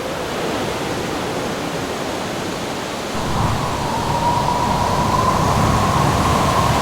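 Howling wind over a steady rushing noise. About three seconds in, a whistling howl rises and holds high while a low rumble grows louder.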